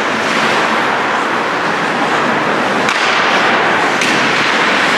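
Ice hockey play: a steady hiss of rink noise with sharp stick-on-puck cracks about three and four seconds in.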